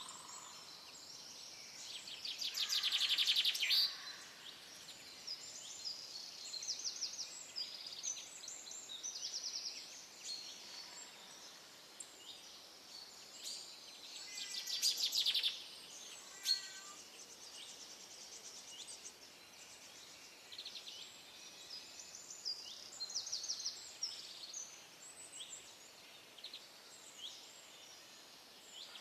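Several songbirds singing and calling, a chorus of short chirps and quick trilled phrases, over a faint steady hiss of outdoor ambience. Two louder rapid trills stand out, one about three seconds in and one about fifteen seconds in.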